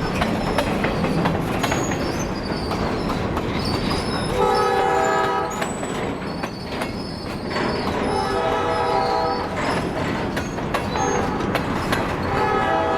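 Diesel freight train's multi-chime air horn sounding two blasts, with a third starting near the end, over the rumble and rolling noise of the passing train and a high wheel squeal.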